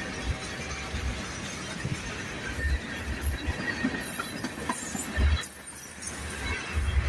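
Freight train rolling past, its cars' wheels clattering on the rails with faint squeals.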